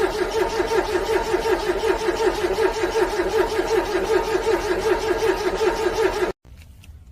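A cold car engine cranking on its electric starter with an even pulsing rhythm, without catching: it is struggling to start in freezing weather. The cranking cuts off abruptly about six seconds in.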